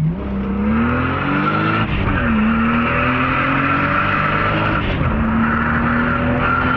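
Toyota 7M-GTE turbocharged straight-six accelerating hard through the gears. The engine pitch climbs, drops at a gear change about two seconds in, climbs again, drops at another change about five seconds in, then rises once more. A steady high whine runs over it.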